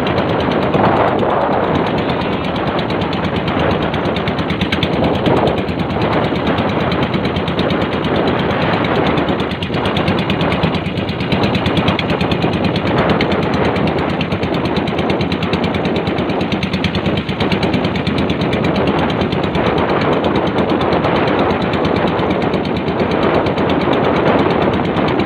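Motorised bangka (outrigger boat) engine running steadily under way, a loud, rapid, even chatter of engine firing.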